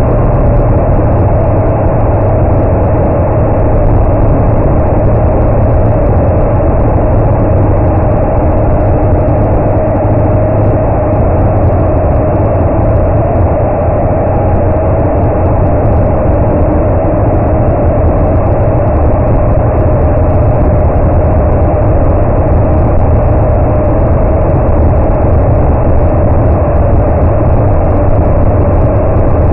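A loud, steady engine drone, deep and unchanging throughout.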